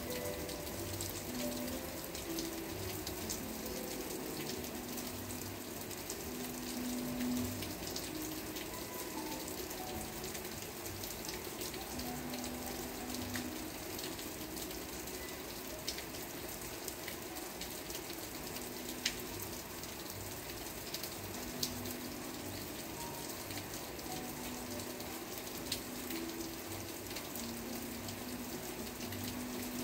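Steady rain falling, an even hiss with a few sharper drop ticks here and there. Soft, held low notes of background music come and go underneath.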